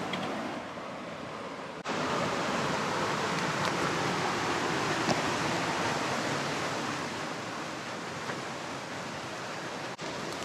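Steady rushing of fast, high river water running through rapids. It jumps louder suddenly about two seconds in.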